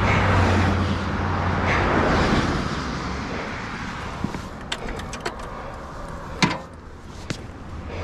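A road vehicle passing by, its low running sound swelling and fading over the first couple of seconds, followed by a string of sharp clicks and one louder knock about six and a half seconds in.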